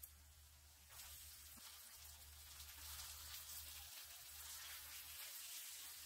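Faint sizzling of food frying in a pan of oil and ghee, growing louder about a second in, over a steady low hum.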